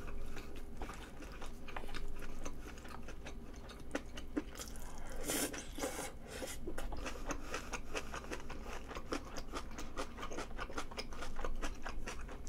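A person chewing food close to the microphone, with many small wet clicks and crunches, and a louder rush of noise about five seconds in.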